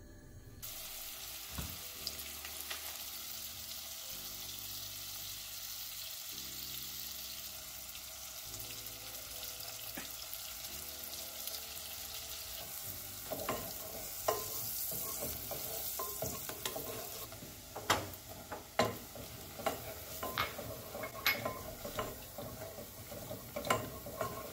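Butter and chopped onion sizzling in a small saucepan, starting about half a second in. In the second half a silicone spatula stirs and scrapes the pan, with repeated sharp taps against its side.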